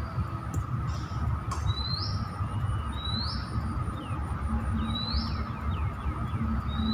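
Birds calling: a whistled call that rises in pitch, repeated four times about every one and a half to two seconds, with a run of short falling notes in between about halfway through, over a steady low rumble.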